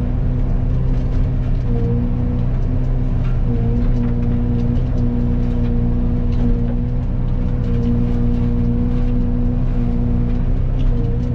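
Excavator running a Fecon forestry mulcher head through brush: a loud, steady machine hum whose pitch sags briefly a few times as the head takes load.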